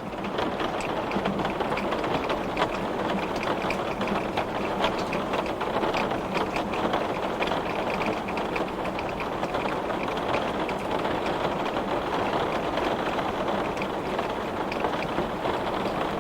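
Heavy rain pattering on window glass: a dense, steady hiss of rainfall with many small separate drop hits on the pane.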